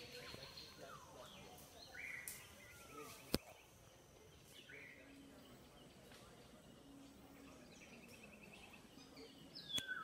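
Birds calling in faint outdoor background: a few quick calls, some running into a rapid buzzy trill, and a falling call near the end. A sharp click cuts in once, a little over three seconds in.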